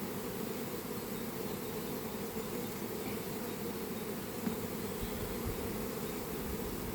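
Many honeybees buzzing together in a steady, dense hum.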